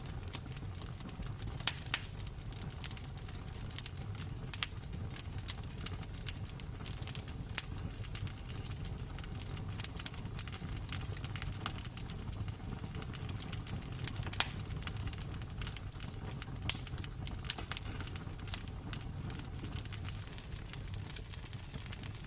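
Wood fire crackling in a fireplace: irregular sharp snaps and pops over a steady low rumble, with a few louder pops.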